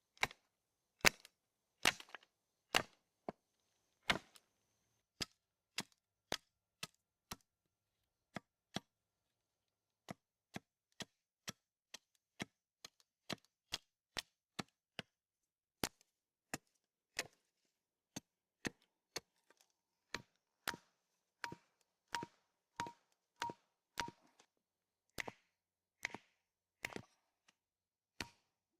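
Wooden stakes being struck over and over, a steady run of sharp single chops or knocks about one to two a second, with a short pause about a third of the way in. Later strikes carry a brief metallic ring.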